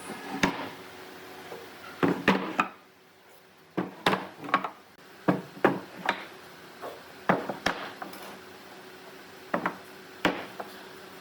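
A series of sharp, irregularly spaced wooden knocks and clacks, some in quick pairs or triples, from pieces of wood being struck or handled. A faint steady hum runs underneath.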